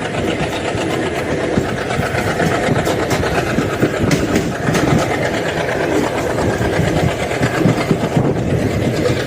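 ALCO diesel locomotive engine running with a loud, steady chugging.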